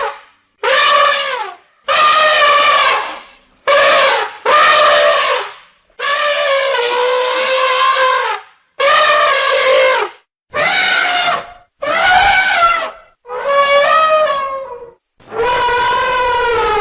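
Elephant trumpeting: a series of about ten loud calls, each one to two seconds long, with short gaps between them.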